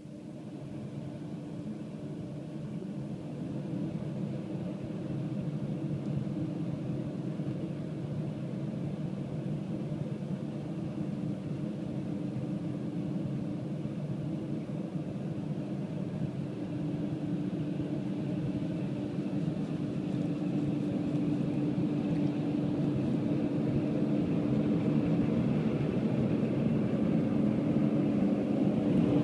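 Automatic car wash machinery running: a steady rumble with a held humming tone, growing gradually louder.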